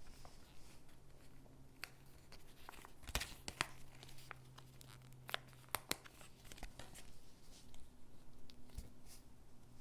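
Stickers being peeled from their backing sheet and pressed onto gingerbread cutouts: soft peeling and paper rustling with scattered sharp ticks, the loudest a little after three seconds in and again around five to six seconds in.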